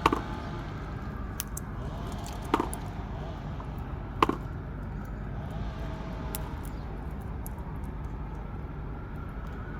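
Steady rumble of distant road traffic, with three sharp knocks: one right at the start, one about two and a half seconds in and one just past four seconds.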